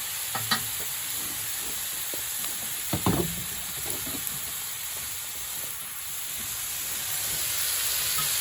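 Pork belly and kimchi sizzling in their rendered fat on an iron griddle, a steady hiss, with a few short knocks, the loudest about three seconds in.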